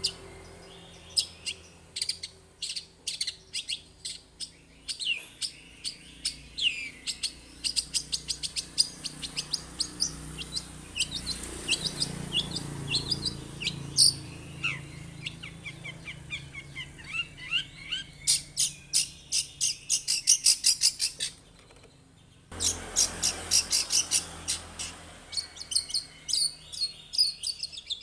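Long-tailed shrike (cendet) singing a long, busy song of sharp chirps and whistles, with fast chattering runs around two-thirds of the way through and a brief break just after.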